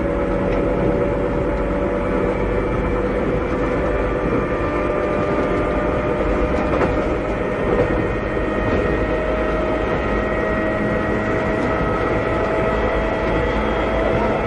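Interior running sound of a Keikyu 600 series (second-generation) electric train with Toyo Denki electrical equipment: the whine of the traction motors and gears slowly rises in pitch as the train gathers speed, over the steady rumble of the wheels on the rails. A rail-joint clack comes about eight seconds in.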